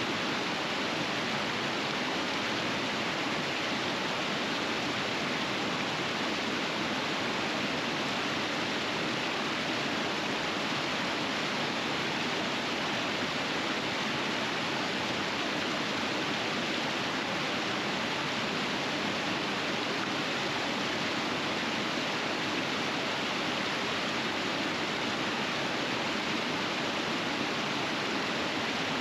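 River rapids rushing steadily: a constant, even roar of flowing water with no breaks or changes.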